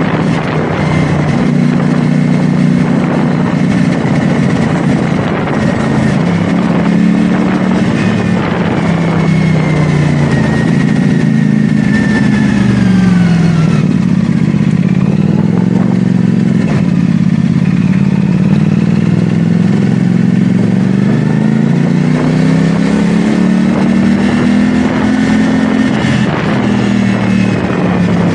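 CFMoto 450SR S parallel-twin engine running under way, with wind rush. The revs sink through the middle and climb again near the end.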